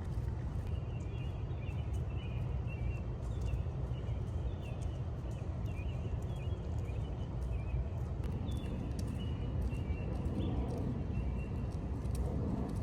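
Outdoor city ambience on a walk: a steady low rumble with faint, scattered high chirps and light clicks.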